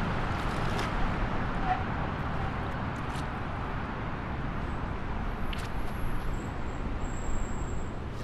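Steady outdoor ambience: a low rumble and hiss of wind, with a few faint clicks and a couple of brief, thin high tones near the end.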